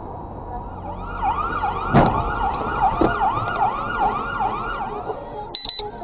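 Emergency vehicle siren wailing in fast rising-and-falling sweeps, about two to three a second. A sharp loud thump comes about two seconds in and a lighter knock a second later. Near the end there are two short loud high beeps.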